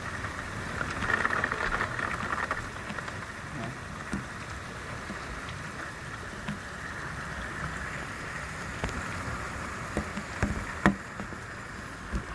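Heavy thunderstorm rain falling steadily, a continuous hiss with a few sharper drip taps near the end.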